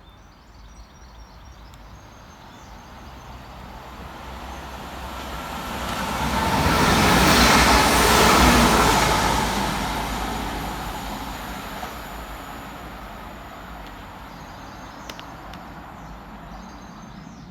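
Transport for Wales Class 197 diesel multiple unit passing fast through a station without stopping. It is heard approaching, is loudest about seven to nine seconds in, then fades away.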